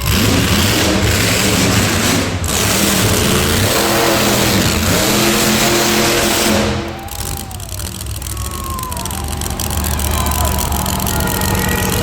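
Monster truck engine revving hard at high throttle, loud, its pitch rising and falling; about seven seconds in it backs off and the sound drops to a lower level.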